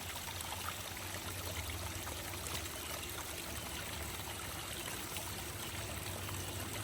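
Shallow creek water trickling and running steadily over rocks, with small scattered drips.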